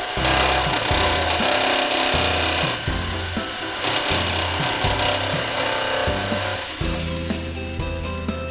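Electric jigsaw cutting into the plastic body of a child's ride-on toy car, running in two stretches and stopping near the end. Background music with a steady beat underneath.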